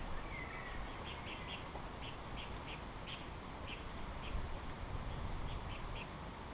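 A bird calling with short, high notes repeated in quick runs of about three, with a brief gliding call about half a second in, over a steady low background hiss of wind or flowing water.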